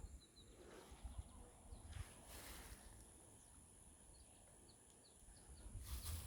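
Faint natural ambience by the water: a steady high-pitched drone, with a few short, faint bird chirps and two brief swells of rustling noise.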